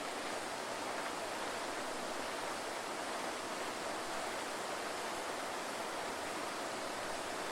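Waterfall: water falling and splashing in a steady, even rush that doesn't change.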